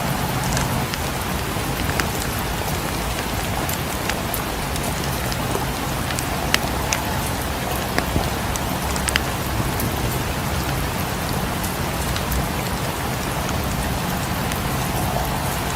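Steady rain falling, with scattered sharp crackles and pops of a wood fire in a fireplace.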